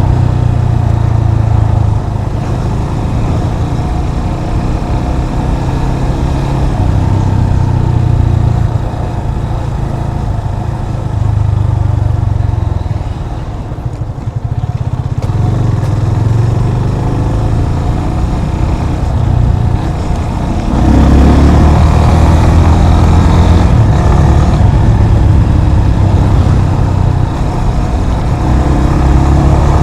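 Yamaha FZ25's single-cylinder engine running under way, its note rising and falling with the throttle; it eases off briefly around the middle, then pulls louder again from about two-thirds through.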